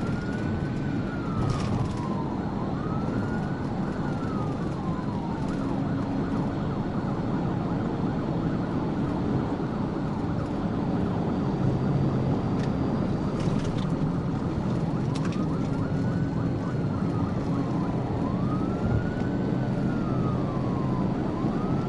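Police siren on a wail, each slow rise and fall lasting about two and a half seconds, over steady engine and road noise from a patrol car in pursuit. The wail drops out for several seconds in the middle and comes back near the end.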